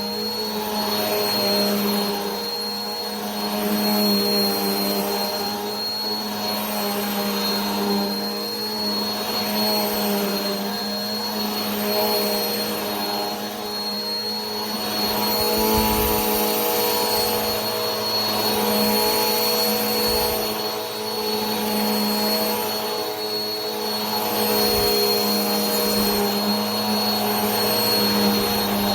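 Vacuum cleaner running steadily: a motor hum with a thin high whine over the rush of air, the rush swelling and easing every two to three seconds.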